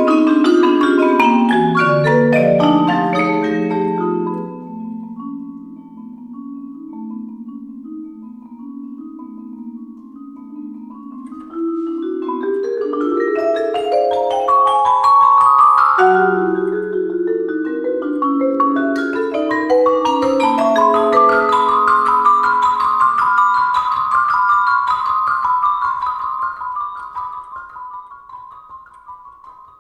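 Marimbas and vibraphone played by a percussion trio. Cascades of overlapping mallet notes give way to long ringing low notes, then a rising run. Fast repeated high notes follow and die away near the end.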